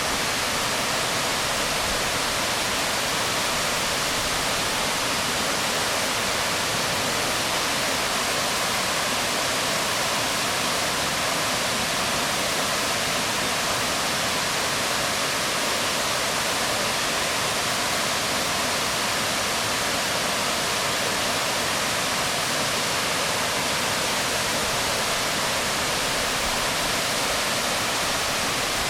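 Waterfall falling onto rocks: a steady, even rush of water.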